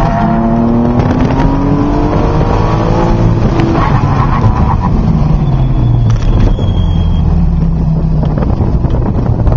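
BMW M Coupe's straight-six engine heard from inside the cabin under hard acceleration on an autocross run. Its pitch rises steadily for about three and a half seconds, then drops away, and it runs on at lower revs.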